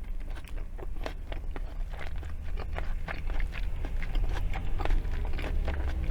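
Close-miked chewing of a first bite of a McDonald's McRib sandwich: wet, irregular mouth clicks and smacks with some crunching of pickles and raw onion.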